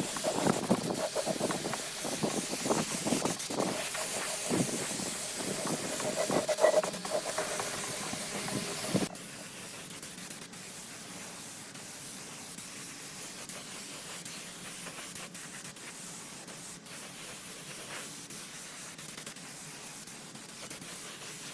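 Steady hissing spray, louder and rougher for the first nine seconds, then dropping suddenly to a quieter, even hiss.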